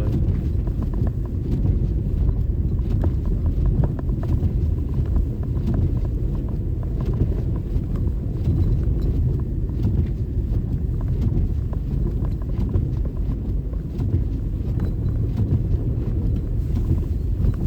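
Car driving on a snow-covered road, heard from inside the cabin: a steady low rumble of tyres and engine, with scattered light ticks.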